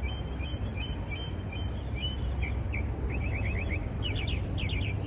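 Songbirds chirping, with short repeated high notes giving way about halfway in to quick trills, over a steady low rumble.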